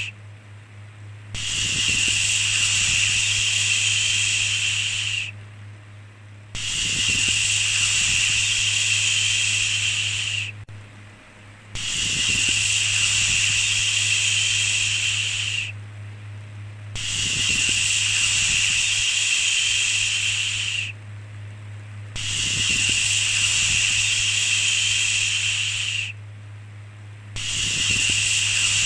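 A long 'shhh' shushing sound repeated over and over, each shush lasting about four seconds with a short pause of about a second between, five times in all. A steady low hum runs underneath.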